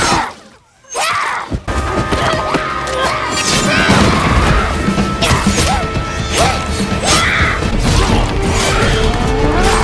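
Action-film soundtrack: music under a run of crashes and impacts, which start after a brief drop about a second in.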